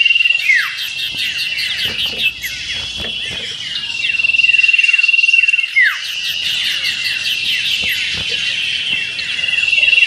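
Common iora (cipoh) singing: a long, steady high whistle that ends in one sharp falling note, repeated about every five and a half seconds. Behind it, a dense chatter of many other small birds' quick falling chirps.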